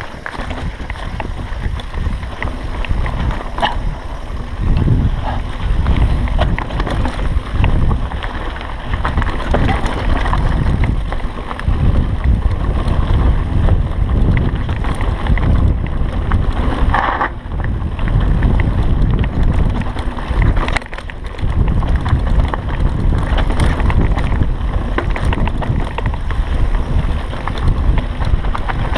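Wind buffeting the microphone over the rattle and rumble of a mountain bike riding a rough, dug-out dirt singletrack, with many small knocks from the bike over the bumps.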